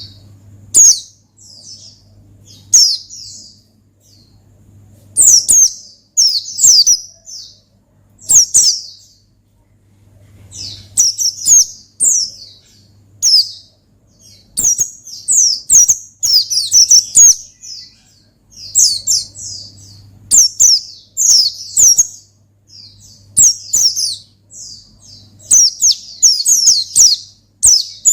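Pleci (white-eye) singing a full, wild-style challenge song: rapid high twittering phrases in bursts of a second or two, with short pauses between them. A faint low hum runs underneath.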